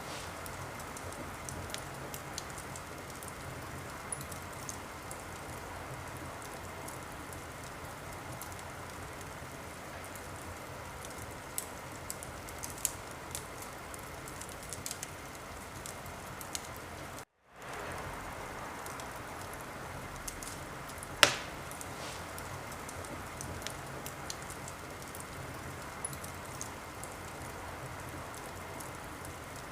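Wood fire in a fireplace crackling over a steady hiss, with scattered small snaps and one loud, sharp pop about two-thirds of the way through. The sound cuts out to silence for a moment a little past halfway, then resumes.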